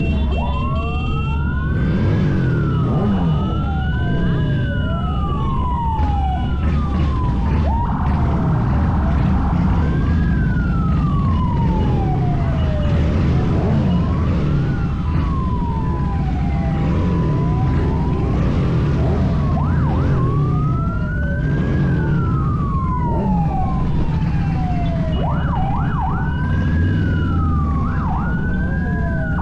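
Several emergency-vehicle sirens wailing at once, each slowly rising and falling over two to three seconds, with a few quicker warbles near the end, over a steady low rumble of vehicle engines.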